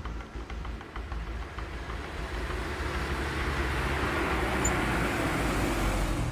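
Road traffic noise with a car going by, building up over a few seconds and cutting off suddenly near the end.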